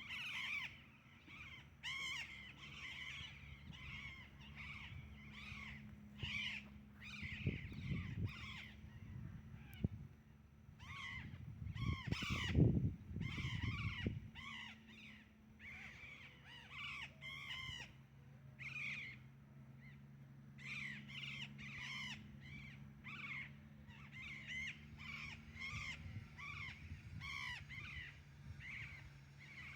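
Birds calling over and over, many short arched calls in quick succession throughout. A low rumble comes in around 8 seconds and again, louder, from about 12 to 14 seconds in.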